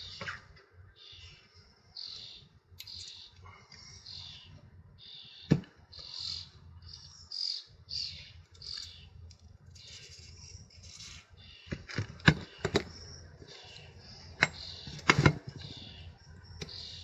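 A bird chirping over and over, about two short high chirps a second, with sharp metallic clicks and knocks from hand tools on the actuator, the loudest a cluster of them near the end.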